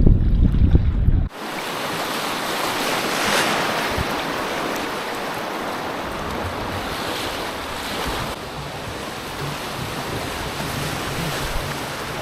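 Wind buffeting the microphone with a low rumble, cut off suddenly about a second in. A steady rush of river water follows.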